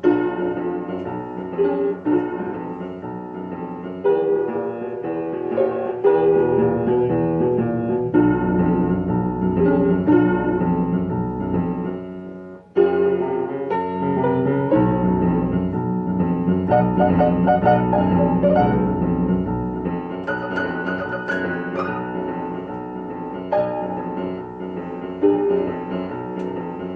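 Out-of-tune acoustic piano being played, a piece of chords and melody; the three strings of individual keys in the middle octave are not in tune with one another, and octaves sound off. The playing breaks off for a moment about halfway, then goes on.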